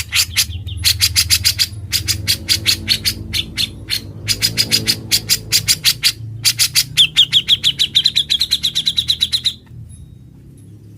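Cucak jenggot (grey-cheeked bulbul) singing loud, rapid notes, several a second. About seven seconds in it breaks into a fast trill of short rising notes, then falls quiet a little before the end.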